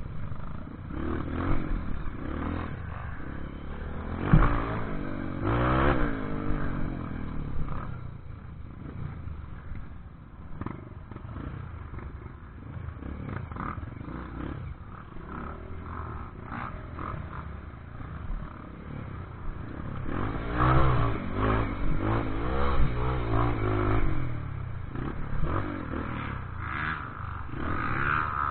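Off-road motorcycle engine revving up and down over rough ground, with rises in pitch about five seconds in and again after about twenty seconds, and knocks and rattles throughout.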